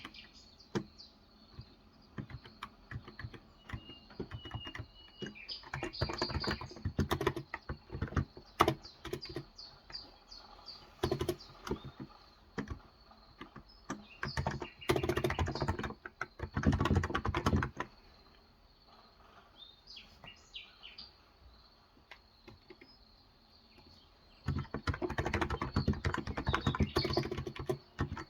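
Typing on a Cox Endeavour 35g electrostatic capacitive (Topre-style) tenkeyless keyboard: quick runs of soft key clicks that pause for several seconds past the middle and start again near the end. Faint bird chirps sound in the background.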